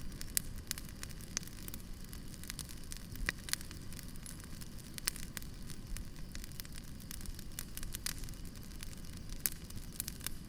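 Campfire burning, crackling with irregular sharp pops and snaps over a low steady rumble.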